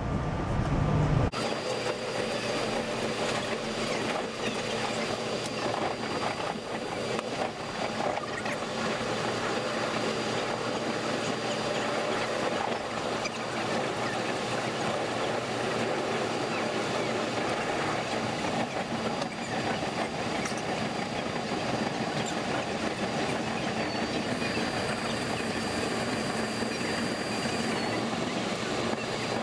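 Steady running noise inside a SEPTA regional rail commuter car travelling at speed, wheels on rails, with a faint high steady whine through most of it.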